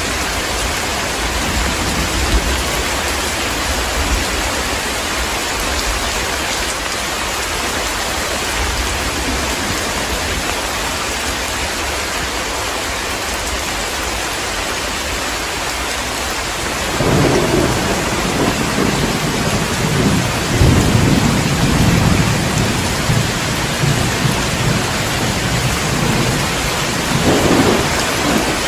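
Heavy rain falling steadily, with a long rolling rumble of thunder that comes in about two-thirds of the way through and swells twice before the end.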